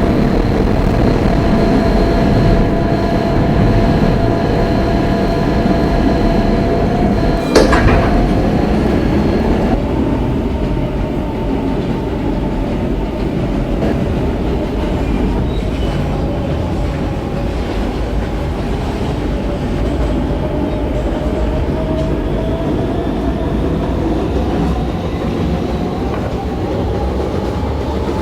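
R160B subway car with Siemens propulsion running between stations, heard from inside the car: steady wheel-on-rail rumble with a steady electric motor whine. A single sharp clank comes about seven and a half seconds in. After that the running is a little quieter, and a whine rises slowly near the end.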